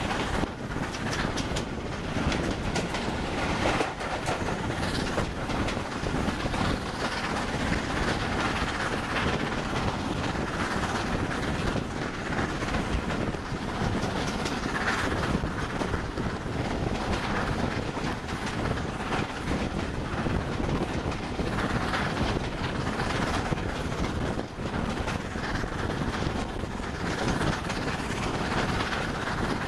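Steam-hauled passenger train running, heard from a carriage window: the carriage wheels clickety-clack over the rail joints over a steady rush of running noise.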